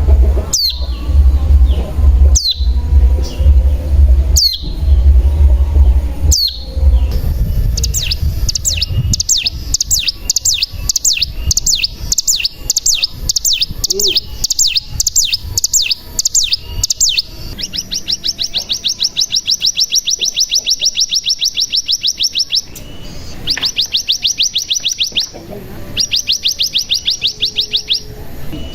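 Ciblek gunung (cigun) singing: sharp down-sweeping call notes about every two seconds over a low rumble, then a run of quick high chirps, then long, very fast buzzing trills, the 'ngebren' song, in several bursts with short breaks. This is the cigun's long trill, used as a lure to set other cigun singing.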